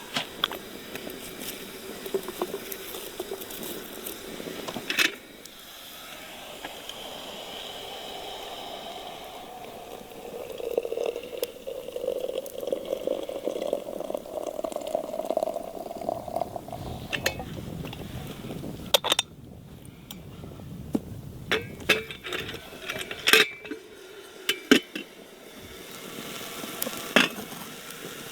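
Kitchen work: irregular clinks and knocks of dishes, pots and utensils being handled, over a steady background.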